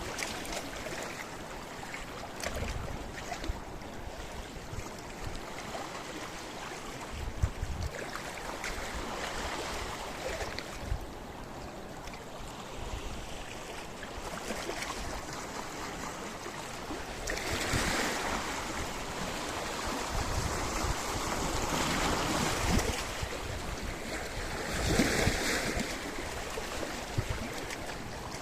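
Sea waves washing onto a rocky shore: a continuous surf wash that swells as waves come in and break, loudest about two-thirds of the way through and again near the end.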